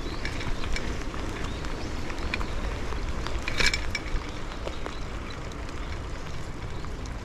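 Steady low rumble of wind on the microphone and road noise while riding a bicycle, with a short burst of rattling clicks about three and a half seconds in.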